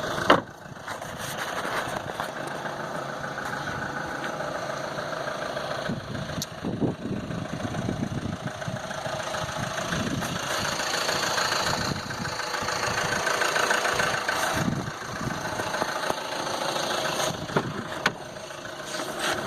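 2014 Chevy Cruze diesel's 2.0-litre four-cylinder turbodiesel idling steadily, with a sharp knock just after the start and a few lighter handling knocks.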